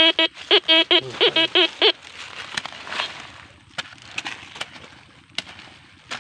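Metal detector signalling a target with a quick run of short, low beeps, their pitch shifting a little, for about the first two seconds. After that come soft scraping and a few sharp clicks.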